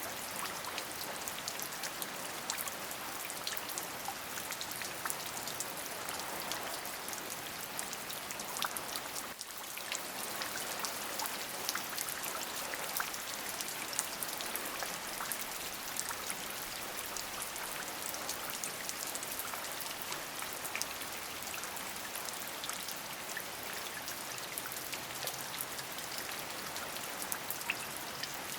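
Steady rain: a dense, even hiss of many small drop ticks, briefly softer about nine seconds in.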